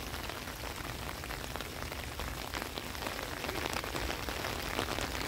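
Steady rain falling, with many individual drops ticking close by over an even hiss and a low rumble underneath.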